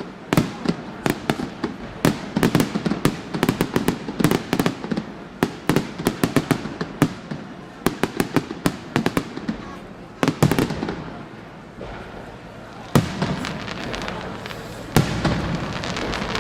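Aerial fireworks display: rapid volleys of sharp bangs and crackles, thinning out after about ten seconds into a few single, louder booms near the end.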